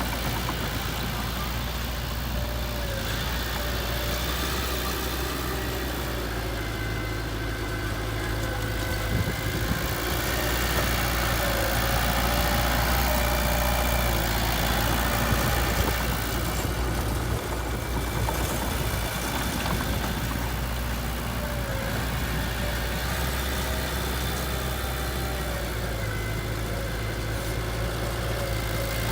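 Heavy construction machine's diesel engine running steadily at idle, getting somewhat louder for several seconds in the middle.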